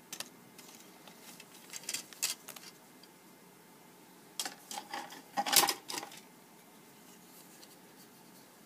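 Plastic model-kit parts being handled on a work surface: scattered clicks, scrapes and rustles in two clusters, the loudest about five and a half seconds in.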